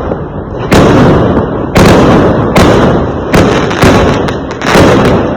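Fireworks going off: six loud bangs in about five seconds, each trailing off before the next.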